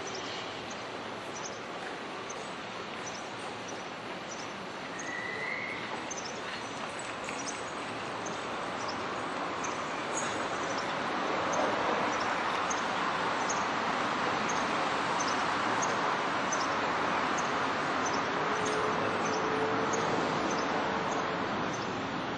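Kintetsu electric commuter train running on the line, its rumble growing louder a few seconds in and holding, with a brief steady whine near the end. A bird chirps in short high notes about twice a second throughout.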